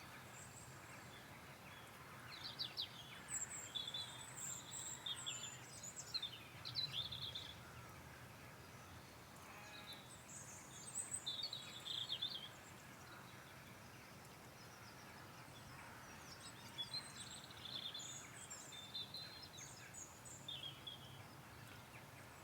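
Several small birds singing, short high chirps and trills coming in bursts with short gaps between them, over a faint steady low background rumble.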